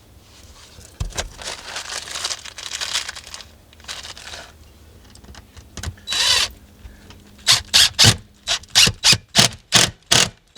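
Power drill driving screws into the solar tube, run in a series of short trigger bursts, about three a second, near the end. It follows a few seconds of rustling and handling of the parts.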